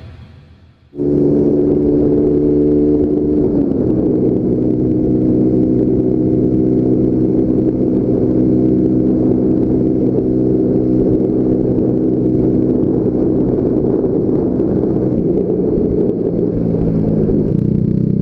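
Small single-cylinder motorcycle engine running at a steady cruising speed, heard from the rider's seat; the engine sound cuts in about a second in.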